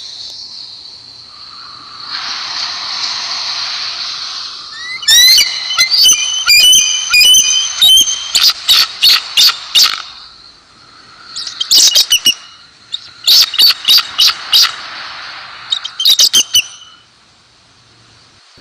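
Eagle calling: several bursts of rapid, high, piping notes, over a steady background hiss.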